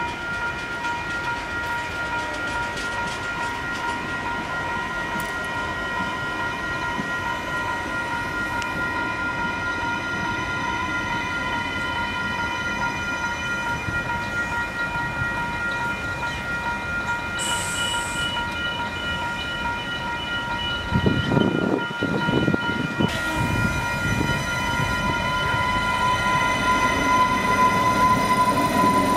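Adelaide Metro 3000-series diesel railcar running in along the station platform, with rail and wheel noise and a brief high squeal about midway. Its rumble and knocks grow heavier as it draws level, about three-quarters of the way through. A steady high-pitched ringing tone sounds throughout.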